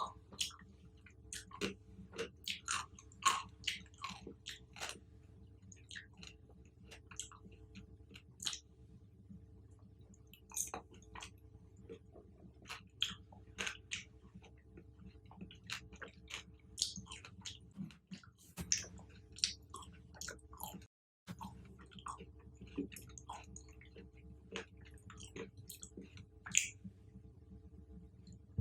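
Close-miked chewing and biting of fruit, heard as many short, sharp clicks at irregular intervals, a few a second. The sound drops out for a moment about three-quarters of the way through.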